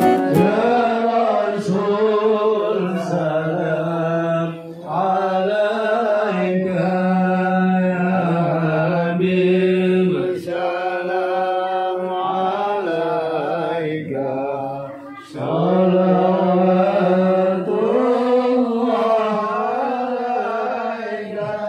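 A voice singing an Islamic devotional song (sholawat) in long, drawn-out, wavering melismatic phrases over a musical accompaniment.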